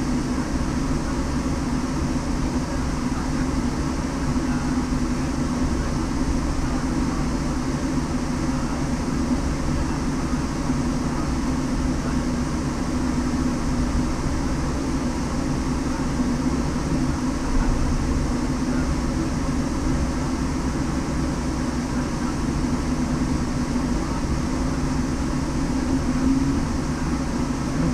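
Citroen C1 race car's engine running steadily with no revving, heard from inside the car as an even drone.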